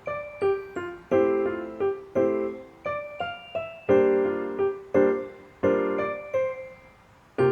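Background music: a gentle piano or electric-piano melody, notes struck about twice a second, each ringing and dying away, thinning out near the end.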